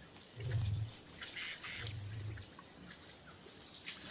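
Birds chirping, with two short low rumbles about half a second and two seconds in.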